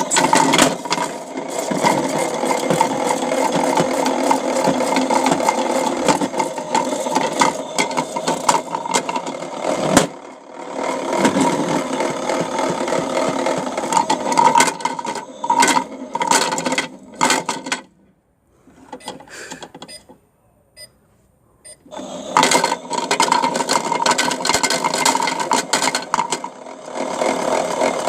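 Toy washing machine's small electric motor running with a steady hum, its drum tumbling a small rock that knocks and rattles against it. It cuts out for a few seconds about two-thirds of the way through, then starts up again.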